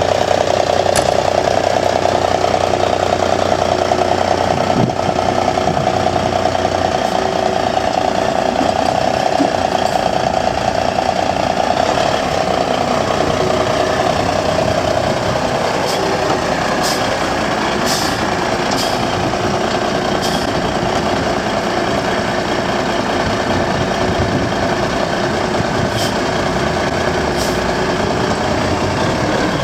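Diesel engine and drivetrain of an AM General 5-ton 6x6 army truck running steadily, with a steady mid-pitched whine that fades about halfway through. A few sharp clicks come in the later half.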